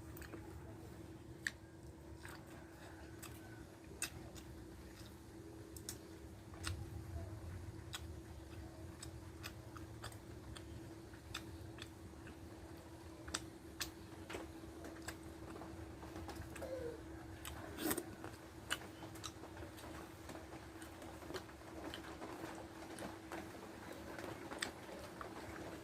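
Someone eating rice with dried fish: chewing with many short, irregular mouth clicks and smacks, faint, over a steady low hum.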